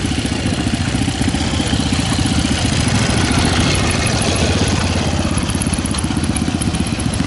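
Vintage trials motorcycle's engine running close by with a rapid, even firing beat as the bike pulls up a grassy slope.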